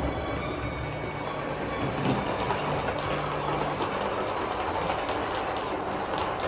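OO gauge Bachmann Midland 1P model locomotive running along the track: its electric motor hums and the wheels rattle and click over the rails. The hum fades about four seconds in.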